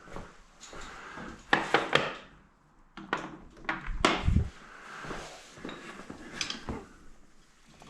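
Socket wrench clinking and knocking against metal in a few irregular sharp strikes as the motorcycle's oil drain bolt is tightened, with a dull thump about four seconds in.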